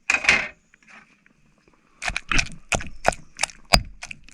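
Pestle pounding in a mortar, crushing chili paste with tomato and eggplant: sharp knocks about three a second, starting about two seconds in. A brief rustling clatter comes at the start.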